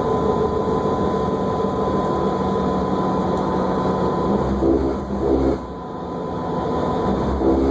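New Flyer D40LFR diesel transit bus under way, heard from inside the cabin: steady running and road noise with a thin, steady high whine. Brief pitched sounds come in pairs about two-thirds of the way through and again near the end.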